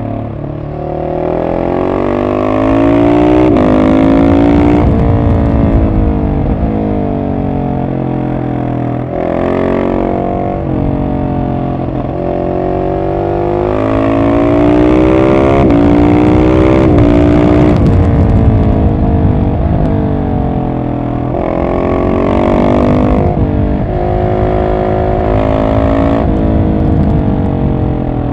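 Husqvarna 701 SM's single-cylinder engine through an Arrow exhaust with the catalyst removed, pulling up through the revs several times with rising pitch and dropping back off the throttle between pulls. The loudest pulls come a few seconds in and around the middle.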